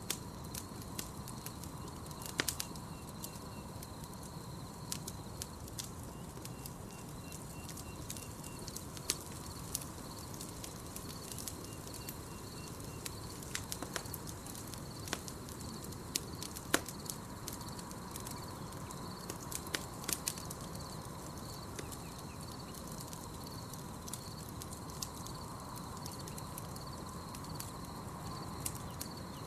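Campfire crackling, with irregular sharp pops and snaps, over a steady night-forest background. A continuous high pulsing trill runs underneath, and three short runs of quick repeated chirps come about two, seven and twelve seconds in.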